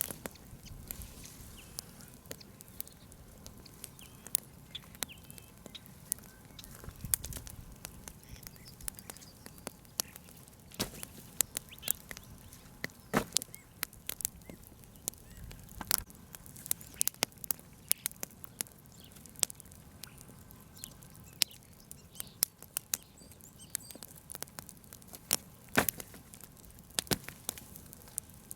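Bonfire of cut branches and brush crackling, with many sharp irregular pops.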